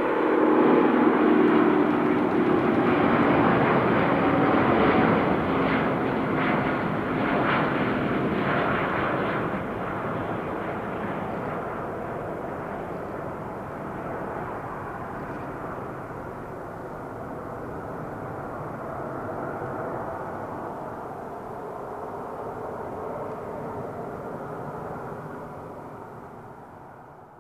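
Airbus A350-941's Rolls-Royce Trent XWB jet engines passing close, loudest in the first few seconds, with their tones dropping in pitch as the roar recedes and slowly dies away. The sound fades out right at the end.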